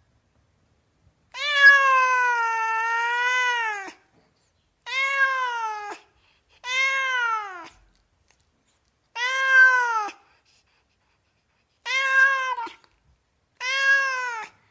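Domestic cat meowing six times, with a gap of about a second between calls. The first meow is long, about two and a half seconds, and the others are shorter, each ending in a falling pitch.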